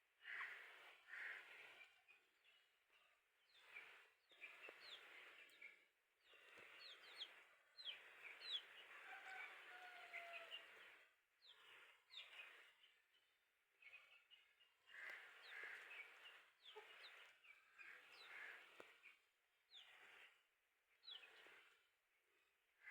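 Aseel chicks faintly peeping, with many short high falling cheeps and a few longer sliding calls, over patches of rustling noise that come and go.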